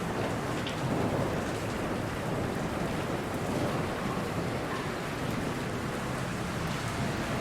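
Steady heavy rain falling, with a low rumble of thunder beneath it.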